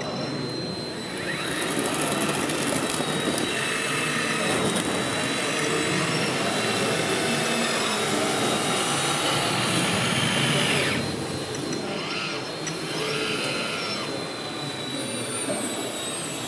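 Steady whirring and hiss of small electric motors with a thin whine over it, swelling about a second in and easing off about eleven seconds in.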